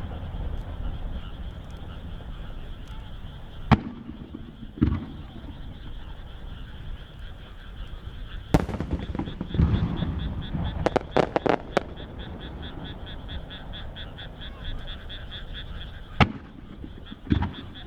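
Large aerial firework shells bursting with single deep booms every few seconds, and a quick cluster of sharp cracks near the middle. Frogs croaking in a fast, even pulsing call between the bursts.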